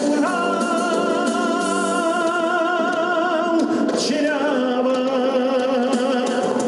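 A song: a singer holds two long notes with vibrato, one after the other, over instrumental accompaniment.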